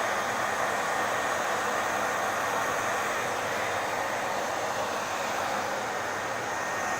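Hair dryer running steadily, a constant airy rush of blown air with a faint steady whine from the motor.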